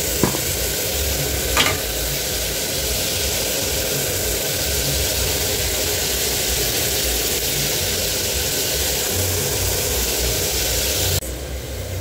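Tomato, green pepper and carrot mixture sizzling in hot oil in an aluminium pot, a steady hiss with two short knocks in the first two seconds. The sizzle cuts off abruptly about a second before the end.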